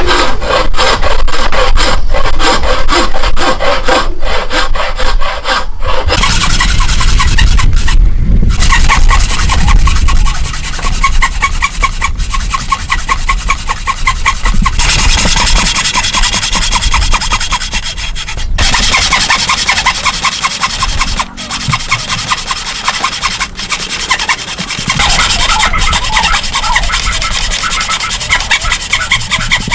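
Hand tools working wood: quick repeated strokes for the first few seconds, then steady rhythmic rubbing and sawing strokes that change abruptly several times.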